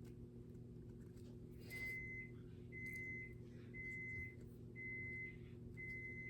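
An electronic beeper sounding five faint, even beeps at one pitch, about a second apart, starting about two seconds in, over a steady low hum.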